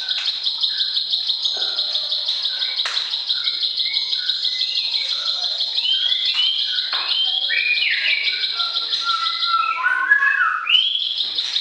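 Songbird recording of orange-headed thrush and plain prinia singing together: a fast, steady trill of high notes runs throughout, with varied whistled phrases of lower notes over it, most of them in the second half.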